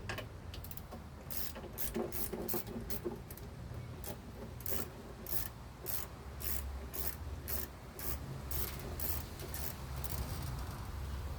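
Hand wrench working a metal fitting in the engine bay: a run of short, sharp scraping clicks, about two a second, as the wrench is fitted and swung.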